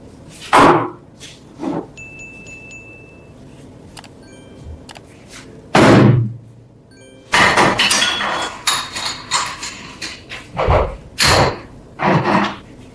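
Metal parts knocking and clanking against each other, a string of separate strikes with a short run of rattling clatter in the middle.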